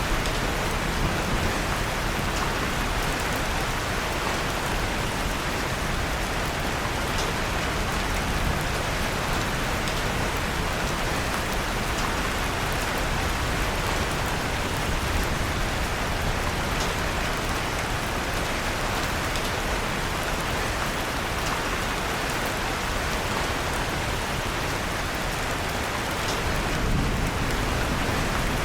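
Steady rain falling, an even hiss of drops, with a few faint sharp ticks scattered through it, the crackle of a fireplace fire mixed in.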